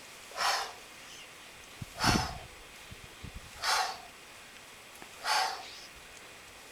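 A person's forceful breaths out, one sharp hissing exhale with each kettlebell squat swing, four times at an even pace about a second and a half apart.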